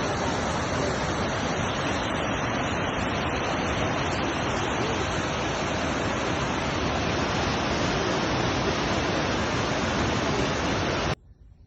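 A steady, even rushing noise that cuts off abruptly about eleven seconds in.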